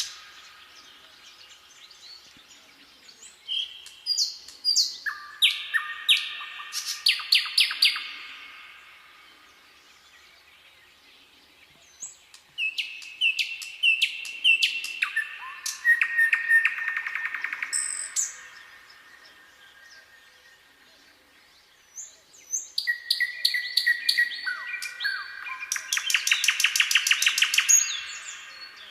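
Songbirds singing in three bursts of rapid trills and short falling chirps, with quieter gaps between the phrases.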